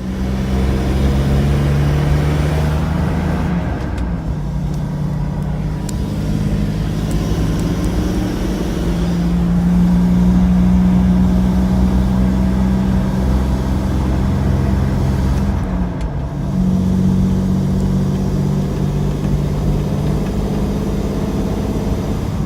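2001 Isuzu VehiCross 3.5-litre V6 running with a large vacuum leak, the intake-to-valve-cover hose left off. The engine note steps up and down a few times, with a rushing of air over it that the owner calls unimaginably loud; the engine is hesitating and losing power.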